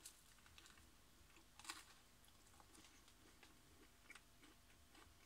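Near silence with faint, irregular soft clicks of a person chewing a bite of a microwaved barbecue rib burger with the mouth closed; the loudest comes a little under two seconds in.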